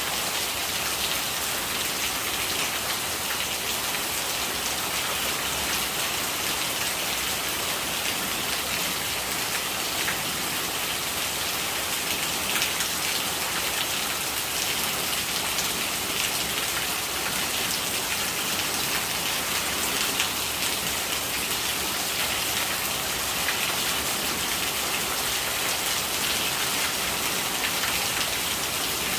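Steady rain falling, with rainwater gurgling: an even, unbroken hiss strongest in the high range, with faint drop ticks.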